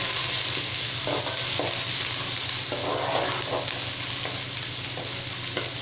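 Chopped onion, curry leaves and chillies sizzling in hot oil in a metal kadai while being sautéed, with a spatula scraping the pan in short, irregular strokes over the steady hiss of frying.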